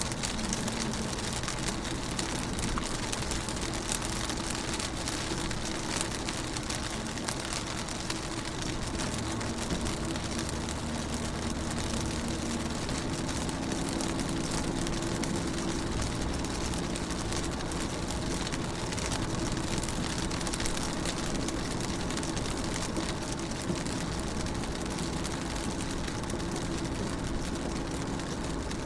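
Rain pattering steadily on a car's window and body, heard from inside the car, under a faint steady low hum.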